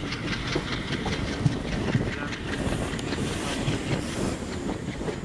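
Passenger train coaches running along the track, heard from aboard: a steady rumble with rapid clacking of the wheels over rail joints.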